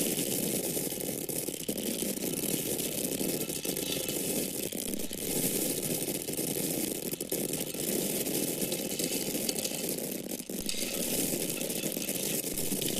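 Dry grain kernels falling and pouring in a steady stream: a dense, continuous hiss of many small hard ticks. There is a brief dip about ten and a half seconds in.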